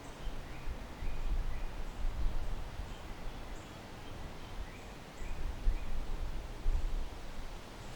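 Wind gusting against the microphone in uneven surges, with leaves rustling and faint, short bird chirps repeating in the background.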